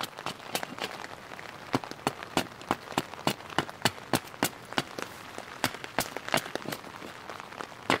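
Rain falling on a forest. Single raindrops strike close by as sharp, irregular ticks, several a second, over a soft steady hiss.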